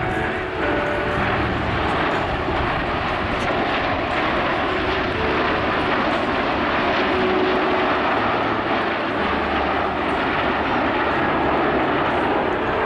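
Jet noise from the F-86 Sabre and the Snowbirds' jets flying past in formation: a steady rushing engine sound that swells slightly partway through.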